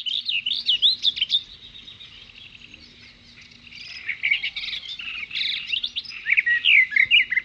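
Small birds chirping in quick rising and falling notes, busiest in the first second and a half and again from about four seconds in.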